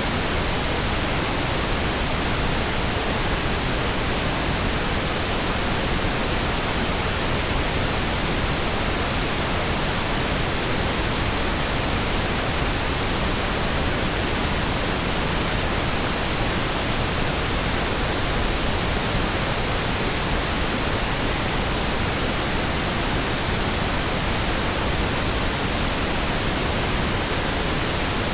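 Steady, even pink noise: a smooth, unchanging hiss spread across the whole range, with no changes or breaks.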